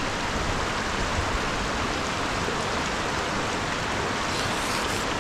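A river flowing over rocks: a steady rushing of water.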